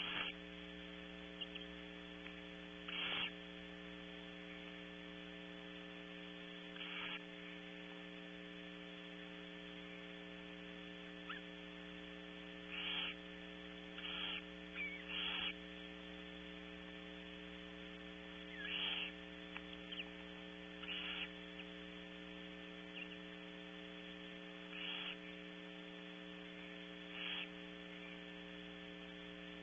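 Barn owls making short, raspy hissing calls, about ten over the stretch, each lasting about half a second, over a steady electrical hum.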